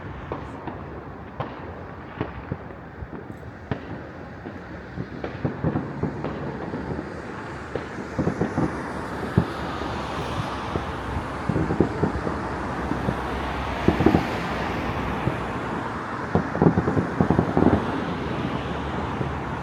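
Many fireworks going off across a city at once: a dense, irregular run of bangs and crackles over a steady rumble, getting busier and louder in the second half.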